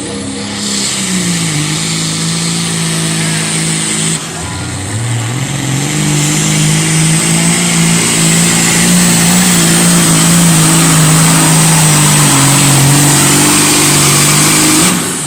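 Competition pulling tractor's engine running hard under load, held at a steady high pitch with a loud hiss. The pitch dips briefly about four seconds in, recovers and holds, and the level falls near the end as the throttle comes off.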